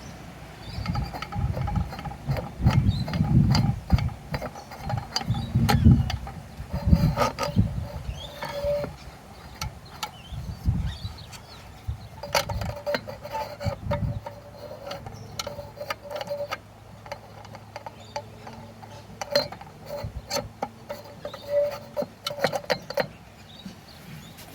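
Metal parts being handled and refitted: repeated clicks, clanks and knocks, heavier thumps in the first half and lighter clicking after, as a part is worked back into place on an old truck.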